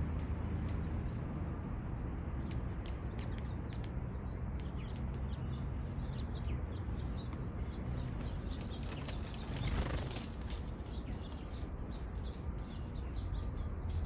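Small wild birds chirping in short, scattered calls, over a steady low rumble.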